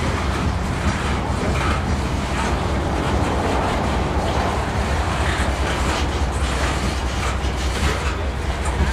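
Freight train of coal cars rolling past close by: a steady rumble of steel wheels on rail, with faint wheel clicks running through it.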